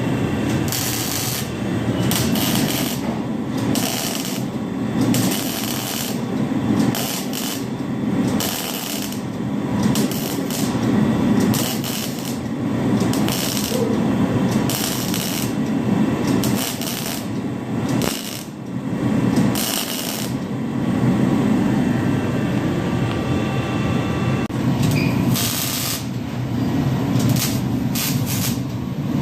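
Car engine running with the exhaust note steady and low, the exhaust leak just repaired. Irregular short bursts of hiss come over it every second or two.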